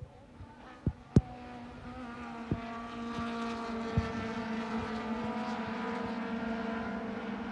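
A car engine running at a steady pitch, its sound growing louder from about two seconds in and then holding. Several sharp clicks cut across it in the first four seconds, the loudest about a second in.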